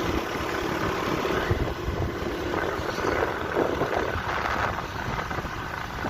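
Steady running and road noise of a moving vehicle, heard from on board.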